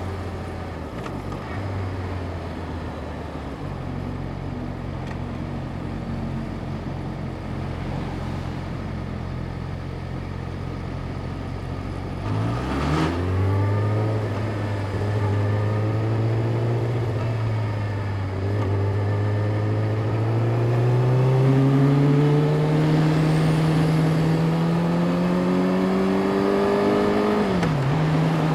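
Yamaha YZF-R6 inline-four engine on the move: running steadily at first, then the throttle opens about halfway and the engine note climbs steadily under acceleration, dropping sharply near the end as it shifts up a gear.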